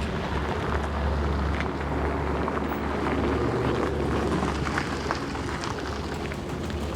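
Canadair CL-415 water bomber's twin turboprop engines droning steadily at a distance during its takeoff from the lake, with wind rumbling on the microphone.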